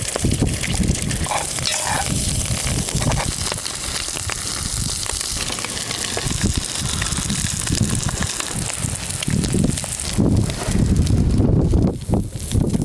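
Strong wind gusting across the microphone: a steady rushing hiss with irregular low buffeting surges, heaviest near the end.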